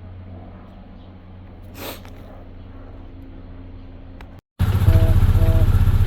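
Carbureted BMW motorcycle engine idling after a fuel-line repair, with a steady, rapid, even exhaust pulse. It comes in suddenly about four and a half seconds in, after a low background hum.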